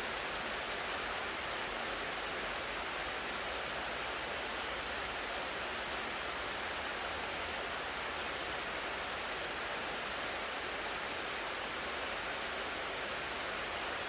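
Steady rain falling: an even, continuous hiss with a few faint drop ticks.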